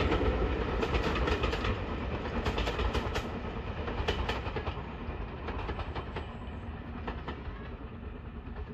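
Passenger train rolling past behind a British heritage steam locomotive, its coach wheels clicking over the rail joints at a steady pace; the sound fades steadily as the train moves away.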